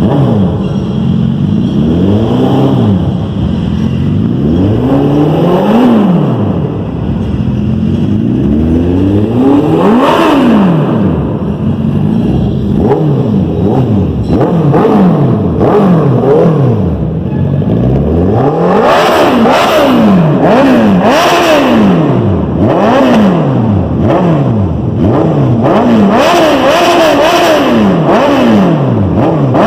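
Suzuki Hayabusa 1340cc inline-four engine revved again and again through its stock exhaust, the pitch rising and falling with each blip of the throttle. The first few revs are slower swells; from about twelve seconds in the blips come quicker, roughly one a second.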